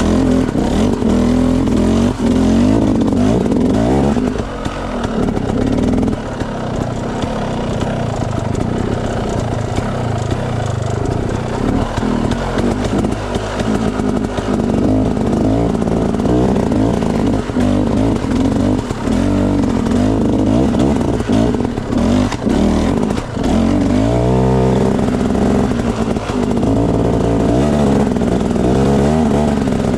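Enduro dirt bike engine running and revving up and down over and over, with sharp rises in revs near the end, and scattered knocks over the engine.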